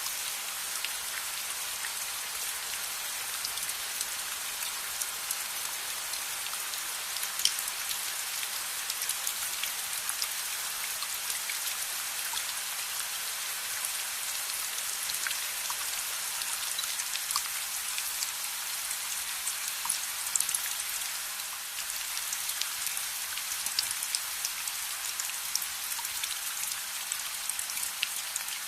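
Steady rainfall, an even hiss of rain on surfaces, with scattered sharp ticks of single drops or crackles throughout.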